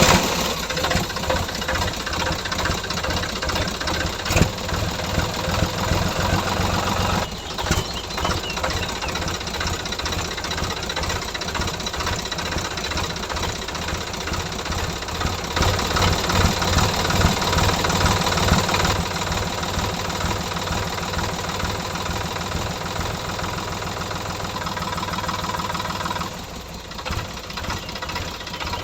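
Small engine of a DIY mini tractor running steadily, with a rapid, even pulsing beat; it drops in level and changes character near the end.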